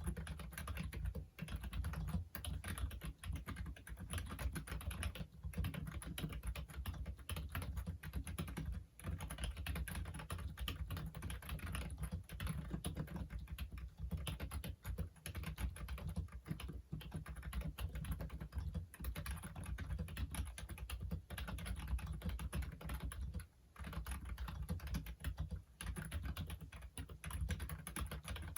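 Fast continuous typing on a Logitech Wave Keys ergonomic wireless keyboard, a dense patter of key clicks broken by a few short pauses.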